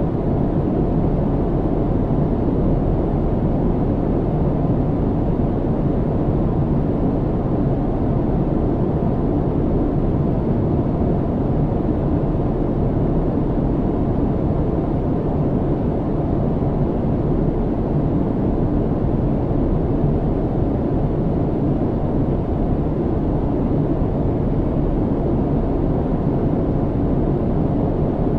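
Steady, low, even rumble of airplane cabin noise in flight, with no changes or separate sounds.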